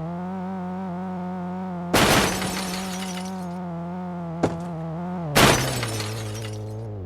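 Two loud car crashes with breaking glass, about three and a half seconds apart, over a steady pitched hum. A short sharp crack comes between them.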